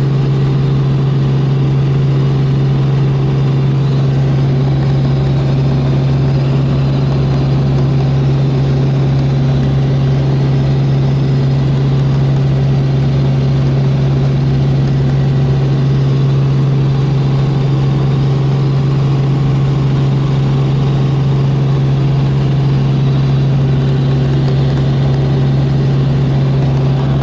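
Helicopter in flight, its engine and rotors running steadily as a loud, constant low hum with a noisy wash over it.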